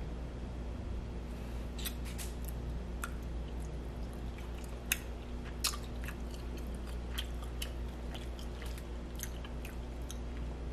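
A person chewing food close to the microphone: a run of short wet mouth clicks and smacks, two sharper ones about halfway through, over a steady low hum.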